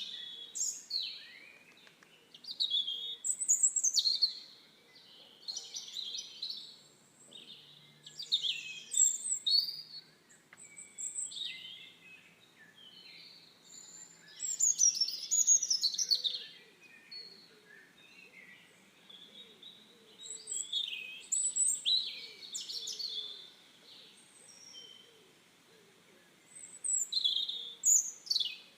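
Songbirds singing: short high phrases of chirps and quick sweeping whistles, coming every two or three seconds with brief pauses between.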